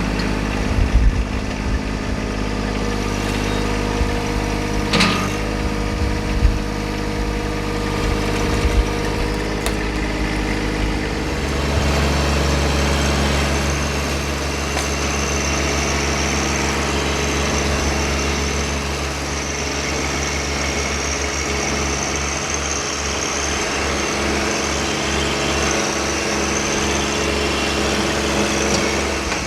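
Tractor engine running steadily, its engine speed changing about eleven seconds in, with a few short knocks in the first several seconds.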